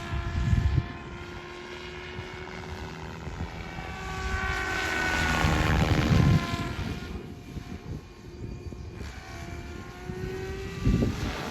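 SAB Goblin 500 electric RC helicopter in flight: the whine of the motor and rotor blades shifts in pitch and swells loudest in the middle, then drops back as the helicopter moves about. Bursts of low rumble come near the start, around six seconds in, and near the end.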